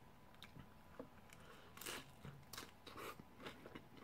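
Faint chewing of a bite of fried, crispy tostada shell, with a string of small irregular crunches.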